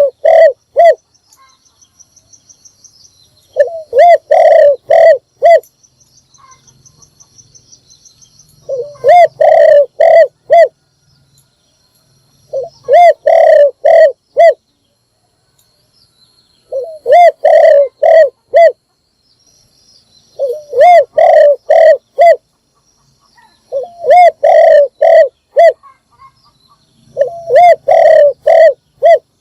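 Spotted dove cooing: a loud phrase of four or five low coos repeats about every four seconds, about eight phrases in all. This is a male's call, used as a lure to draw in wild doves.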